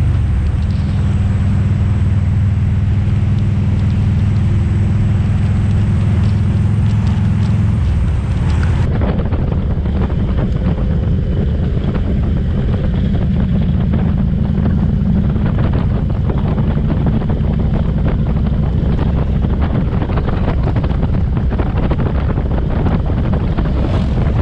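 Motorcycle engine running at riding speed, with wind on the microphone. For the first eight or nine seconds the engine note is steady; after that the sound turns rougher and noisier.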